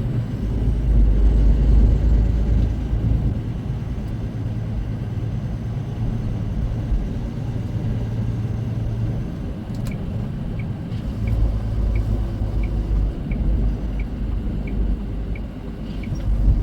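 Steady low engine and road rumble inside a semi truck's cab. From about ten seconds in, a turn-signal indicator ticks evenly, about twice a second.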